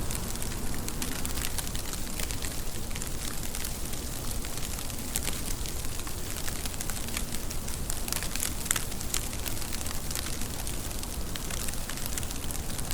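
Steady rain with a constant hiss and many sharp drop ticks, a few louder ones about eight to nine seconds in.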